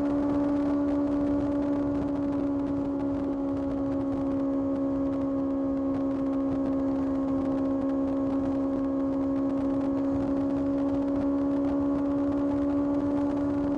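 Kawasaki ZX-6R's inline-four engine running at steady, fairly high revs, its note holding one pitch throughout.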